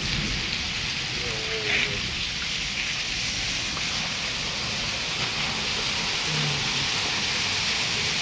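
Heavy rain pouring down steadily, an even, dense hiss of water hitting hard surfaces.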